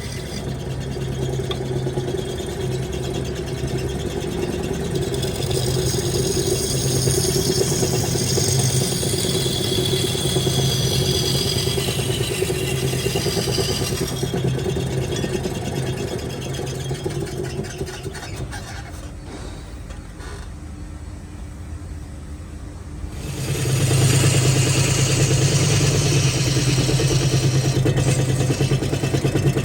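Wood lathe running with a steady motor hum, with higher hissing at times as wood is worked. It dies down for a few seconds about two-thirds of the way through, then runs loud again.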